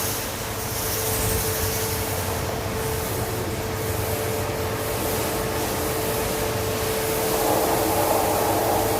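A steady machine hum with a constant tone under an even hiss like spraying water, typical of washing down a milking parlour with a hose while equipment runs. It swells a little near the end.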